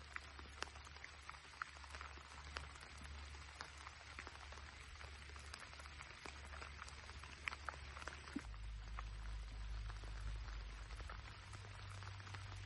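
Steady rain falling, with many individual drops ticking sharply through it, over a low steady hum that shifts lower about eight seconds in.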